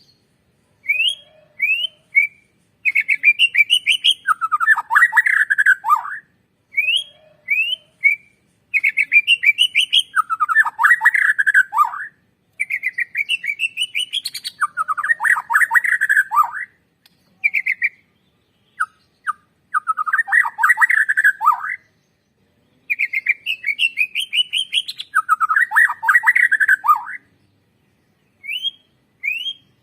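White-rumped shama (Bornean murai batu) singing a loud, varied song in repeated phrases: short upward-slurred whistles followed by fast tumbling runs of notes that drop in pitch, with brief pauses between bouts.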